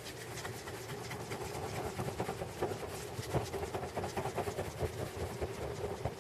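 Wood fire crackling in a three-log 'candle' campfire, with many small, irregular sharp pops that grow denser about two seconds in as the kindling catches.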